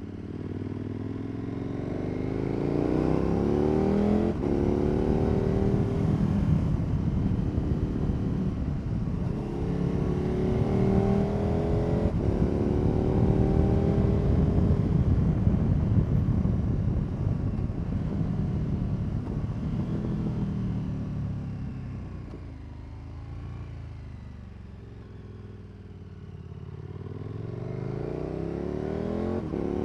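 KTM 1290 Super Adventure S V-twin with an aftermarket Wings exhaust, accelerating through the gears: the engine pitch climbs, breaks off at a shift and climbs again, twice in the first half. Past the middle the bike eases off and the note drops lower and quieter, then it pulls up in pitch again near the end.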